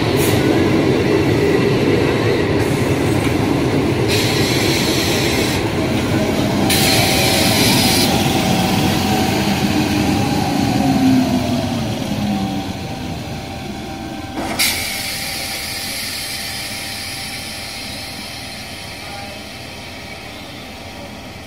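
Passenger train coaches running past at close range, a heavy rumble and clatter of wheels on rail with a couple of brief hissing bursts, fading away as the last coach passes about twelve seconds in. A sharp knock follows a couple of seconds later, then a much quieter, steady low rumble.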